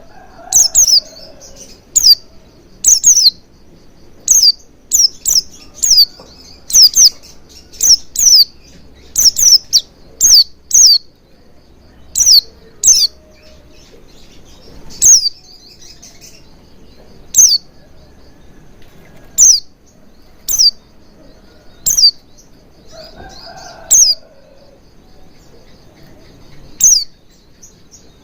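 White-eye (pleci) calls used as a lure: short, sharp, high-pitched chirps, each falling in pitch, repeated irregularly about once a second and sometimes in quick pairs.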